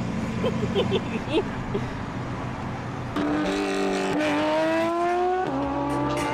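Gintani-tuned Lamborghini Aventador SVJ V12, heard from the open roadster's seat. It cruises with a low steady rumble, then about three seconds in it pulls hard, its pitch climbing, dropping at an upshift and climbing again.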